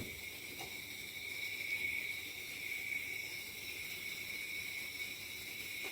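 Pancake batter frying in a hot pan, a faint steady high-pitched sizzle.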